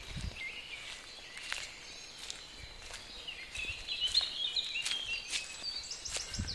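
Woodland songbirds singing: a string of short chirping phrases, busiest from about three seconds in, with a few faint clicks.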